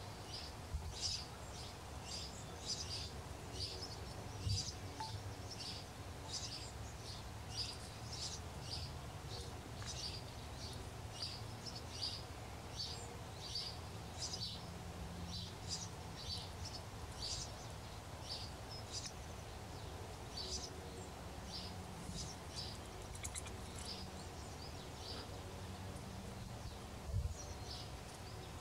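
A bird chirping over and over, short high chirps about one to two a second, over a low steady background rumble. Two soft low thumps come a few seconds in and near the end.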